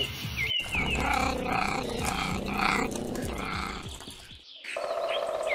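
Margay growling in short calls, about two a second, over a repeated high chirping. The sound cuts off shortly before the end.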